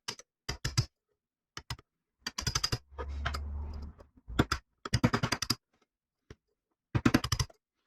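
Clusters of quick, light metal clicks and taps from hand tools working an old seal out of its bore in a part for a Subaru EJ253 engine, with a short low hum about three seconds in.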